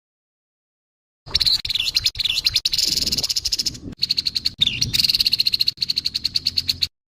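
Grey-headed babbler giving its harsh call: a fast, high-pitched chatter of rapidly repeated notes. It starts about a second in and stops abruptly near the end.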